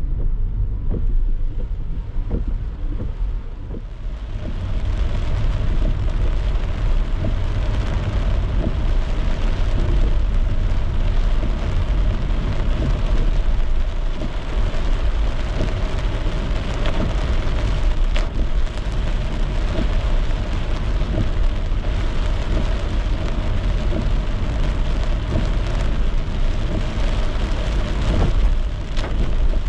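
A car driving in the rain: a steady hiss of rain and wet-road tyre noise over a low road rumble. The hiss grows louder about four seconds in.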